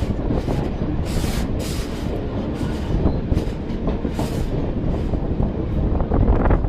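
Mumbai suburban local train running along the track: a steady rumble of wheels on rail, with repeated sharp clatters as the wheels pass over rail joints.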